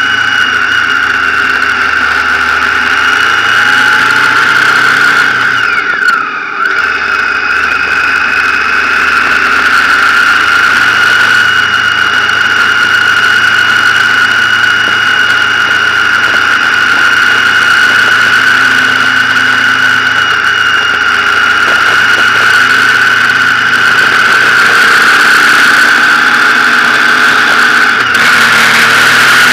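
Motorcycle running on the move with a steady high whine. The low engine note shifts a few times and briefly dips about six seconds in.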